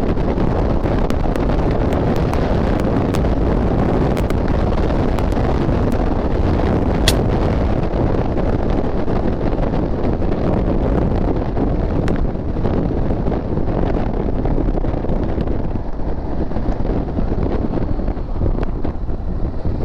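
Heavy wind buffeting on the microphone and road rush from a motorcycle travelling at high speed, with one brief sharp click about seven seconds in.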